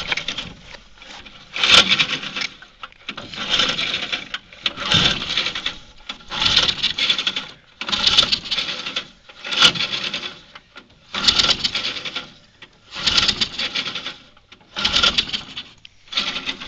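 Recoil pull-starter of a go-kart's small engine yanked about ten times in steady succession, each pull a rasping scrape of about a second with no firing. The engine is seized, in the owner's words.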